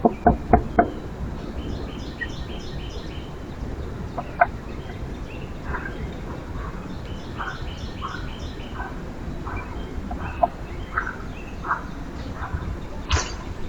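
Wild birds calling: two quick runs of rapid high chattering notes and a string of short single call notes about once a second, with a few sharp taps in the first second.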